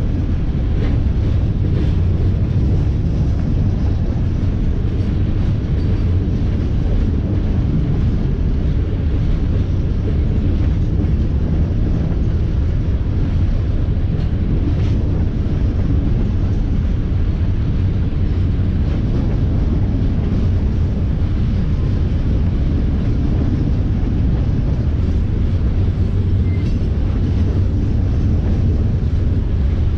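Train rolling past with a steady, loud low rumble and no horn.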